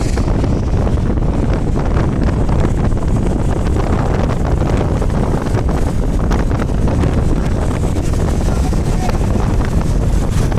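Loud, steady wind buffeting the microphone during a motorcycle ride at speed, a dense low rumble without a break.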